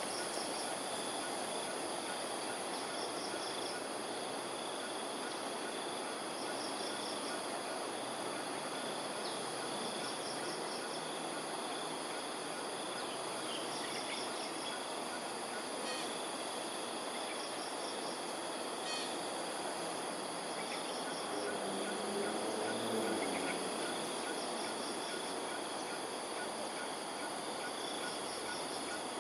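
Insects droning steadily in high, continuous tones, with a short pulsed trill repeating about every three and a half seconds over a steady background rush. About two-thirds of the way in, a brief low-pitched sound rises slightly above the rest.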